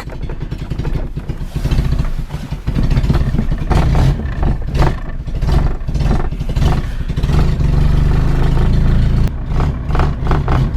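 1984 Opel Corsa A's 1.2-litre carburetted four-cylinder engine running unevenly just after a cold start, with the choke just released, through an exhaust that needs fixing or replacing. It gets louder about three seconds in.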